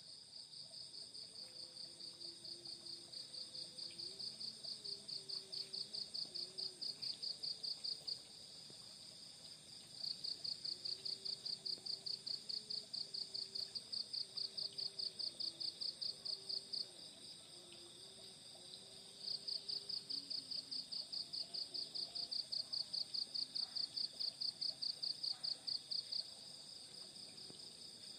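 Crickets chirping at dusk: one insect's fast, evenly pulsed trill of several pulses a second comes in three long bouts, each growing louder and then stopping short. Under it runs a steady high-pitched insect drone.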